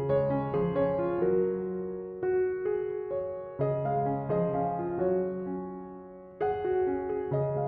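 Background piano music: gentle chords and melody notes struck about once a second, each fading away.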